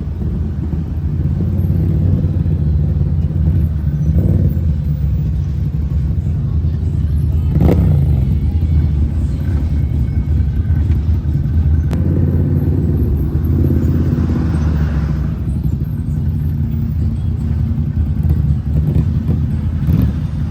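A vehicle engine running steadily with a low rumble, with one brief sharp sound about eight seconds in.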